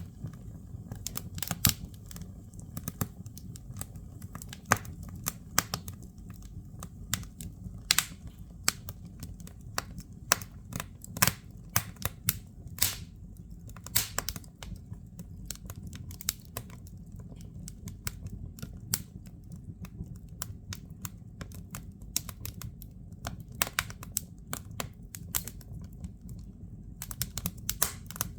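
Firewood crackling as it burns in a fireplace: irregular sharp pops and snaps, some louder than others, over a steady low rumble.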